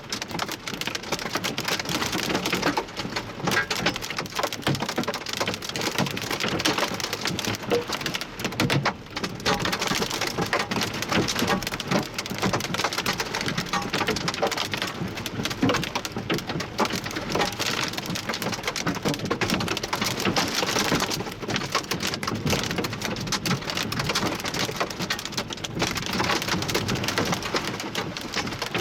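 Wind-driven hail and heavy rain pelting down: a dense, unbroken rattle of many hard impacts.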